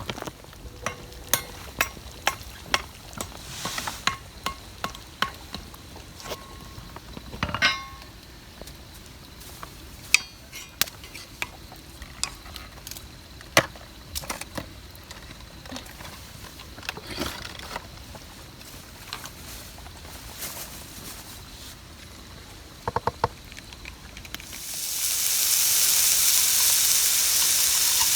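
Scattered sharp clicks and clinks of cookware being handled, then about 25 seconds in, a loud, steady sizzle starts as food goes into a hot pan over a campfire and begins frying.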